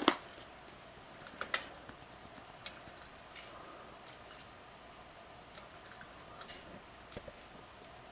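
Unpowered Hunter Eastern Shore ceiling fan freewheeling after a hand spin: a faint steady whir with scattered light clicks and ticks, the sharpest right at the start and about 1.5 s in.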